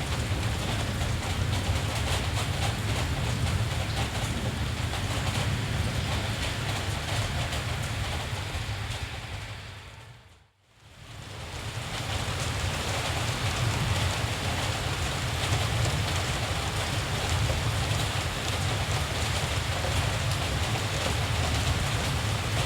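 Steady rain with a low rumble underneath. About ten seconds in, the sound fades out to near silence for a moment, then fades back in.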